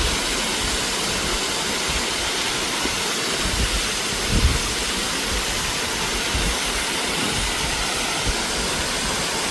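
Steady rush of falling water from a waterfall, with a few soft low thumps on the microphone around the middle.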